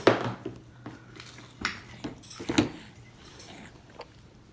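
Dishes and cutlery clinking and knocking a few times, the loudest just at the start and others about one and a half and two and a half seconds in, in a small room.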